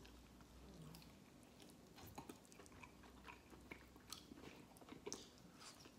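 Faint chewing: a man biting into and chewing a piece of roasted chicken thigh, with soft, irregular mouth clicks that come more often from about two seconds in.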